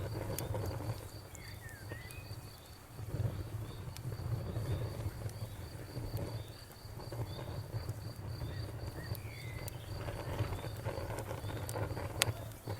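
Bonfire crackling, with a low rumble and scattered sharp pops, the loudest pop near the end. A cricket chirps steadily throughout, about four high chirps a second.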